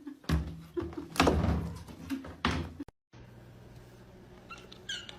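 Several dull knocks and thumps over about three seconds, then a quieter stretch with a low steady hum.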